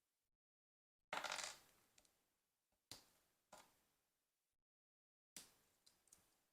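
Small plastic LEGO pieces clicking and rattling as they are handled during a build: a brief rattle about a second in, then several single sharp clicks.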